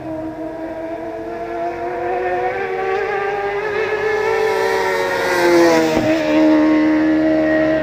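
Racing sportbike engine at high revs, growing louder as the bike approaches and leans through the corner, loudest as it passes. About six seconds in, its pitch steps down and then holds steady.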